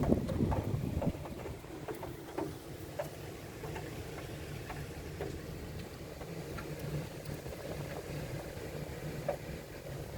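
Rain: scattered raindrops tapping irregularly on a windowsill and window glass over a steady low rumble of rain and wind, with a louder low swell in the first second.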